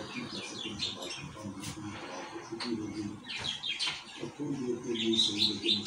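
Small birds chirping in quick repeated clusters, with lower pitched sounds running underneath.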